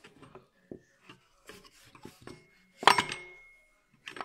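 Metal tools or parts clinking and rubbing during a repair, with small scattered clicks. About three seconds in comes one sharp metallic clank that rings briefly.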